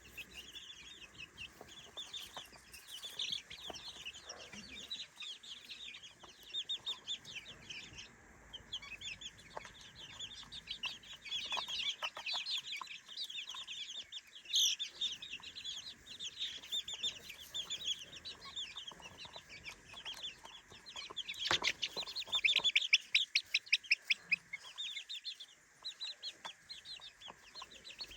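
A flock of three-week-old chicks peeping constantly, many short high chirps overlapping, growing louder and busier about three-quarters of the way through.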